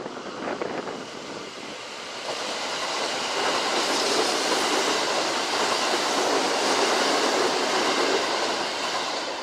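An electric train passing through the station, its noise building about two seconds in, loudest through the middle and easing off near the end.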